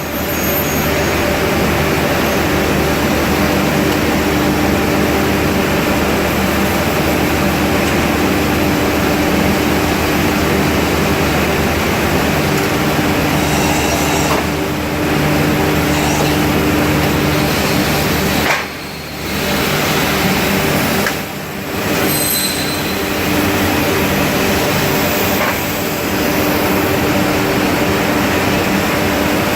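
Steady, loud machinery noise with a low hum, from an industrial billet-heating furnace and hot log shear line running. The noise drops out briefly twice, a little past the middle.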